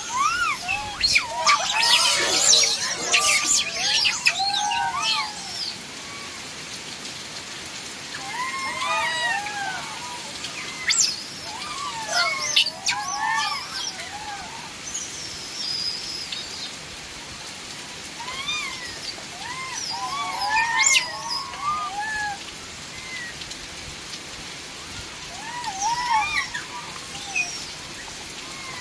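Steady rain falling, with clusters of short rising-and-falling calls every few seconds. The calls are loudest and busiest near the start.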